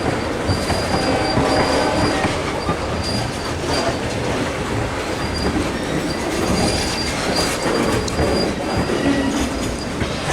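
Freight train of tank cars rolling slowly past, steel wheels clacking over rail joints and the diamond crossing, with a thin high wheel squeal coming and going.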